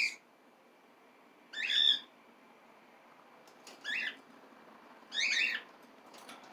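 Pet cockatiel giving three separate short, high contact calls, a second or two apart.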